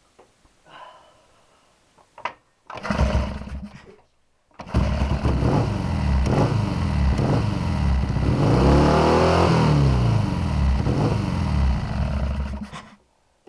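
Triumph Bonneville T120 650 cc parallel-twin engine being started. It gives a short first burst of about a second that stops, then catches and runs for about eight seconds, is revved up and back down once in the middle, and is switched off. It is being run to recheck the ignition timing with a strobe light.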